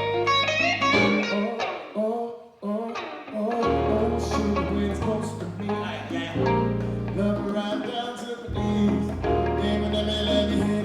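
Live Latin trio playing an instrumental passage: plucked guitar notes over long held bass notes.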